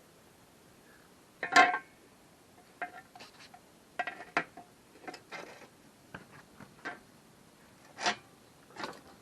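Hard objects being handled: an irregular series of knocks, clinks and rubbing sounds, with the loudest clatter about one and a half seconds in and another just before the end.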